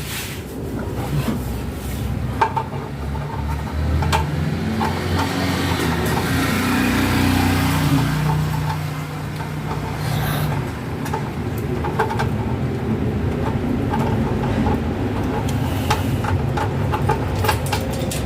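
Road traffic going by: a steady motor-vehicle rumble that swells as a vehicle passes about six to eight seconds in, with scattered light clicks and knocks.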